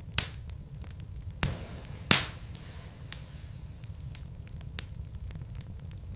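Wood logs burning in a fireplace: a steady low rumble of the fire with scattered crackles and three loud pops in the first half, the loudest a little after two seconds.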